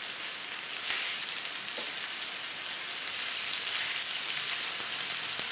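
Chicken pieces, onions and spices sizzling in oil in a wide pan as yogurt is stirred in, a steady frying hiss that grows a little louder about a second in and again near the middle.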